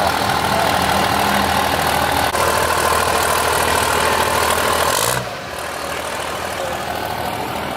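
A vehicle engine idling steadily. About five seconds in, the sound drops abruptly and turns quieter.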